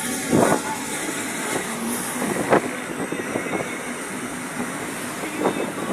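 A vehicle on the move: steady road and engine noise, with a few brief louder knocks about half a second, two and a half and five and a half seconds in.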